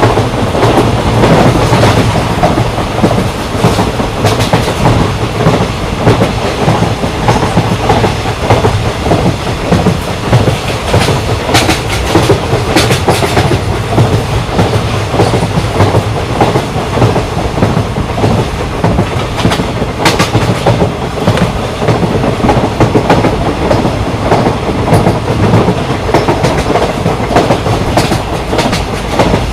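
Moving passenger train of Indian Railways, the Patna Kota Express, with a loud, steady rumble and the clickety-clack of wheels over rail joints, a few sharper clanks about twelve and twenty seconds in.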